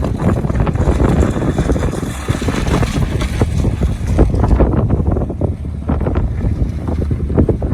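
Snowmobile engine running while riding, with bumps and rattles from the ride and wind buffeting the microphone.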